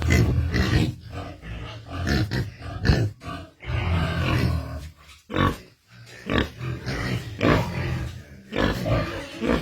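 Pigs grunting in a run of short, irregular grunts with brief pauses between them.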